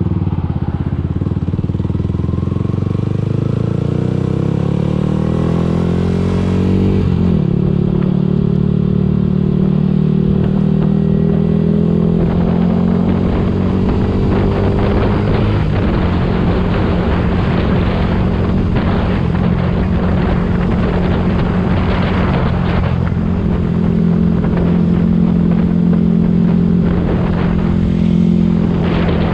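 Yamaha YZF-R125's single-cylinder four-stroke engine and exhaust under acceleration: the pitch climbs for about seven seconds, drops suddenly at a gear change, then holds fairly steady with small rises and dips.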